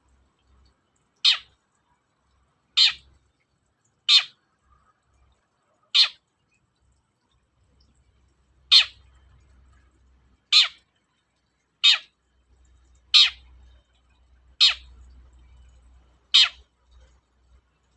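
Long-tailed shrike (cendet) giving ten short, harsh calls, one every second or two, with a longer pause about six seconds in.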